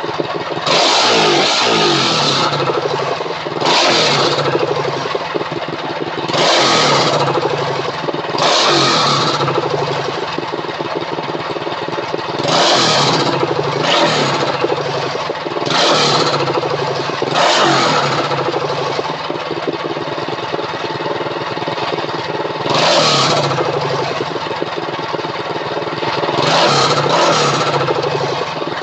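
Predator 212 single-cylinder four-stroke engine of a BT200X mini bike running and being revved up again and again, with about ten rising surges of throttle between spells at lower revs.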